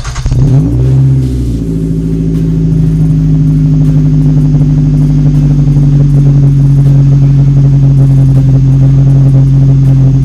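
2012 Nissan Rogue's four-cylinder engine, breathing through a new MagnaFlow exhaust, starting up: a brief crank, the engine catches and flares for about a second, then settles into a steady, loud idle.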